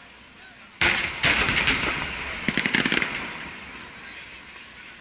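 Aerial fireworks shells bursting: three sharp bangs about half a second apart a second in, then a quick run of smaller crackling pops, fading away.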